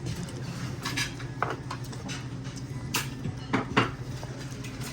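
Tableware clinking during a meal: utensils knocking against dishes in a few sharp clinks, the loudest near the end, over a steady low hum.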